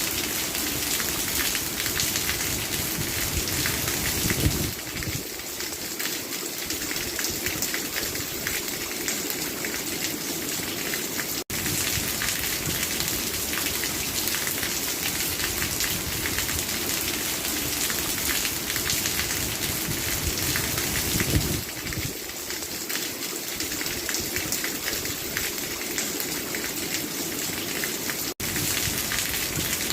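Steady, heavy rain falling in a dense patter. The sound cuts out for an instant twice, about seventeen seconds apart, where the recording repeats.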